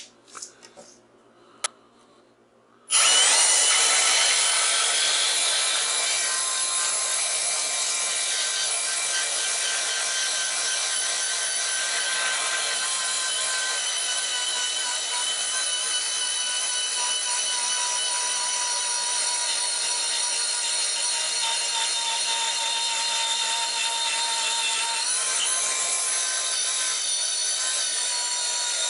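A few faint clicks, then an angle grinder starts suddenly about three seconds in and runs with a steady, loud high whine as it cuts into a scrap transformer's steel core. Its pitch sags briefly under load near the end and then recovers.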